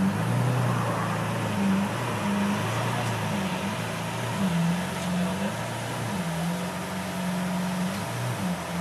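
Lamborghini Aventador's V12 engine running at low revs as the car creeps forward, its low note stepping up and down repeatedly with light throttle.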